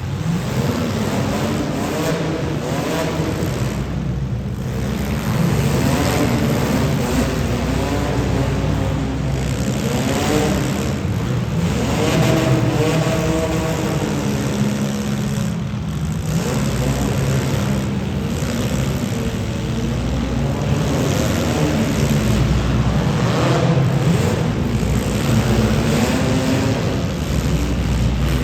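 Engines of several demolition derby cars running and revving together, their pitch rising and falling over and over.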